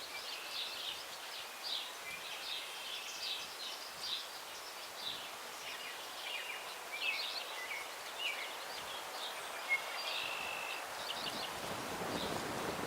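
Several songbirds singing and chirping over one another in a tree grove, with a steady hiss of breeze in the branches that swells near the end.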